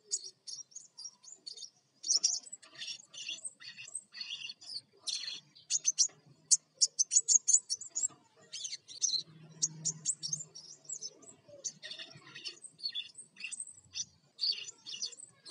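Crimson sunbird singing in a fast, unbroken stream of short, high, sharp chirps and twittering notes: the bird in full, energetic song.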